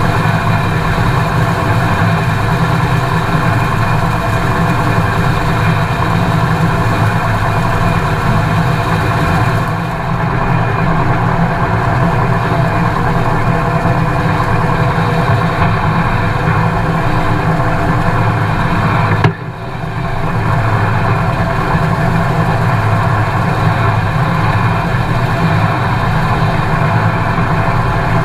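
New Holland TX5090 combine harvester running steadily, its engine and machinery making a constant hum. There is a sharp click about 19 seconds in, followed by a brief drop in level.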